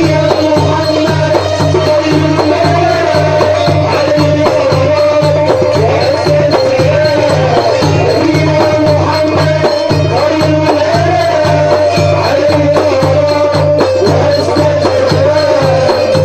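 Simsimiyya folk band playing an instrumental passage: a wavering melody line over a steady pulsing bass beat, with shaken rattle-type percussion.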